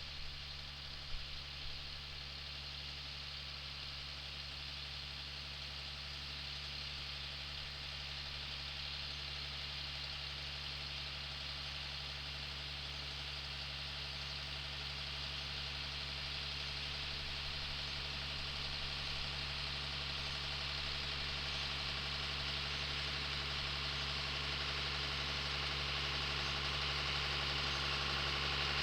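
An engine running steadily, growing slowly and evenly louder.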